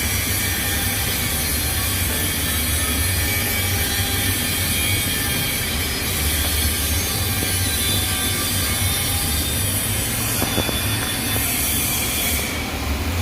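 TIG welding arc on stainless steel: a steady hiss with a low hum underneath, dipping slightly near the end.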